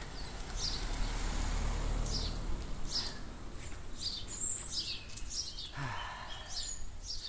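Birds singing from the roadside trees: short high chirps repeated about once a second, with a brief higher whistle about four seconds in, over a low rumble.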